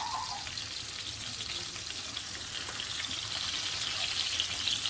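Food sizzling in a hot pot on the stove: a steady crackling hiss that grows a little louder near the end.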